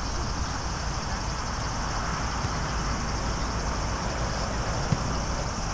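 Outdoor ambience of wind rumbling on the microphone over a steady high chirring of insects, with a single short thump near the end.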